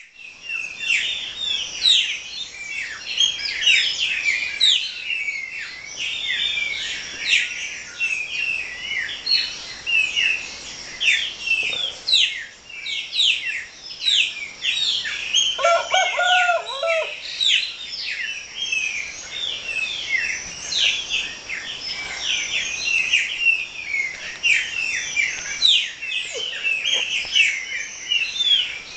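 Many small birds chirping and twittering at once in a dense, continuous chorus. About halfway through, a rooster crows once, a lower call lasting about a second and a half.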